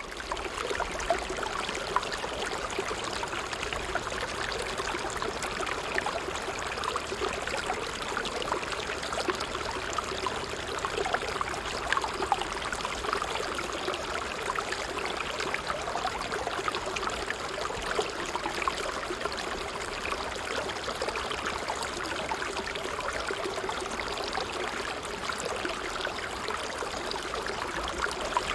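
Water trickling steadily in a continuous stream of fine splashes and gurgles, with no rhythm or break.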